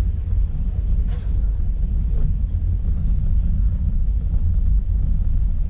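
Steady low engine and road rumble of a vehicle being driven, with a brief hiss about a second in.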